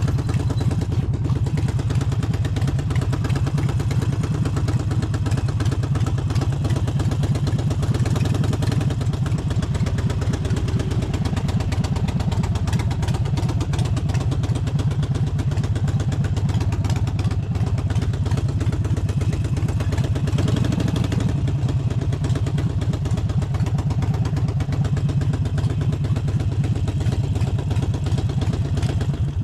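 Harley-Davidson Forty-Eight's air-cooled 1200 cc V-twin running steadily, with small dips and rises in engine pitch.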